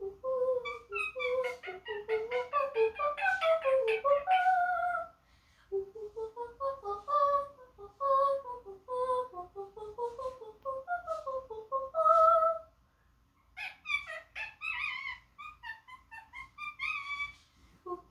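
A parrot singing opera-style: quick runs of short, wavering high notes that climb and fall, broken by two short pauses, about five seconds in and about twelve and a half seconds in, with a run of higher, shriller notes after the second pause.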